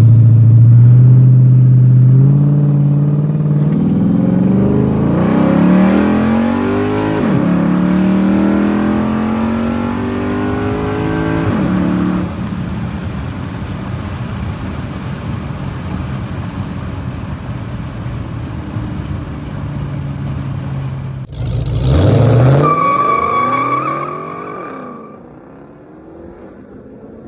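Car accelerating hard: the engine's pitch climbs, drops sharply at upshifts about seven and twelve seconds in, then holds steady while cruising. Near the end a second burst of engine revving climbs in pitch with a steady whine over it, then fades.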